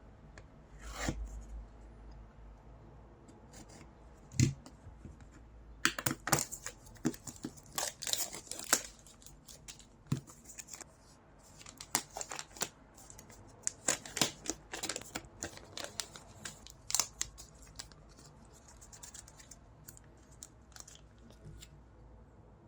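Product packaging being handled and opened: a thump about four seconds in, then a run of tearing, crinkling and sharp clicks that thins out near the end.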